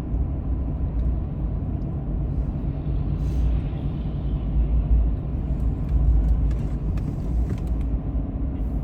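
Car driving, a steady low rumble of road and engine noise as heard inside the cabin.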